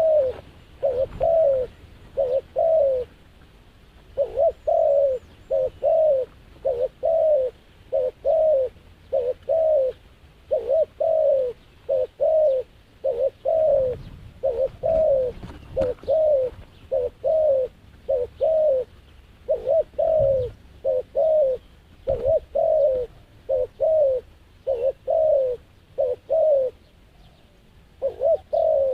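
A dove cooing over and over in quick runs of short, falling coos, about two a second, with brief pauses between runs.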